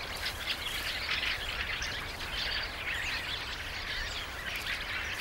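A flock of fieldfares calling, many short chattering calls overlapping without a break.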